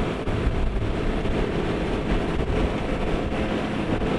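Jet-drive fishing boat's engine running steadily under way while towing another boat, with a low rumble and the rush of water and wind over it.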